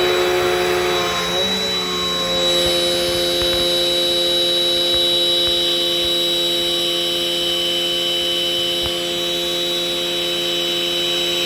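Dirt Devil Dynamite Plus vacuum cleaner running steadily, its motor giving a steady hum with a high whine on top. The pitch shifts up slightly about a second and a half in.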